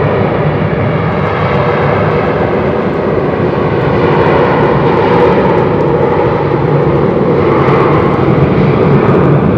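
Boeing 737-700 BBJ's twin CFM56-7 turbofan engines at takeoff thrust: a loud, steady jet noise that grows a little louder after a few seconds, with a slow sweeping shift in tone as the jet passes.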